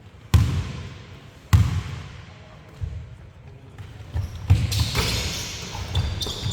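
Basketball bouncing hard on a gym floor: two loud bounces about a second apart, then more bounces and busier noise of play near the end.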